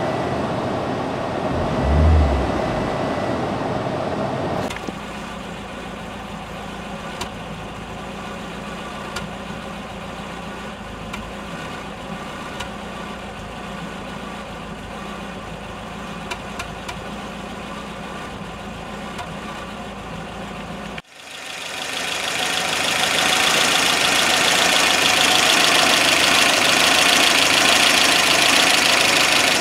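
Car engine idling steadily; the engine has a vacuum leak. About two-thirds of the way through the sound cuts off abruptly, and a loud rushing noise builds over a few seconds and then holds steady.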